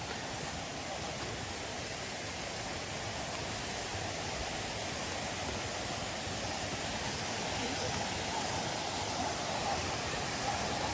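Steady rushing of a waterfall and stream, a continuous hiss that grows slowly louder.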